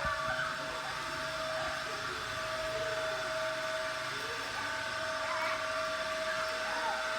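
Small electric motor of a battery-powered toy train running with a steady whir and a constant high hum.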